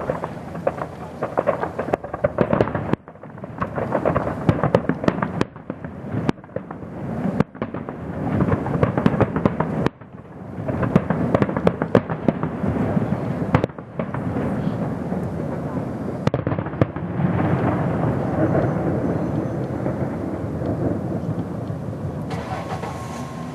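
Fireworks display: a dense, rapid barrage of aerial shell bursts and crackling. In the last several seconds the bursts run together into a steadier rumble that slowly fades.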